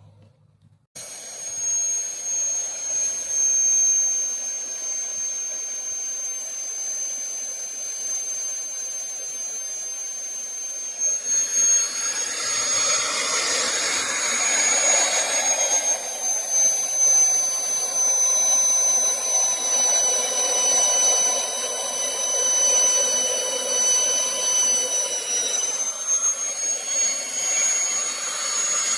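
Magnetic drill (mag drill) starting up about a second in and running with a steady high whine; about ten seconds later the cutter bites into thick plate, adding a loud rough cutting noise under the whine for the rest of the cut, the motor pitch sagging briefly under load.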